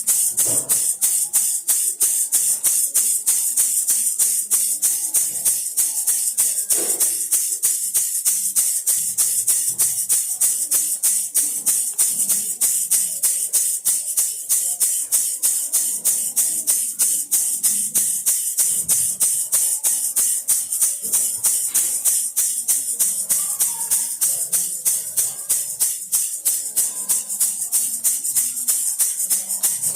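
Baby rattle shaken steadily in a fast, even rhythm of about four shakes a second, its beads giving a bright, hissy rattle.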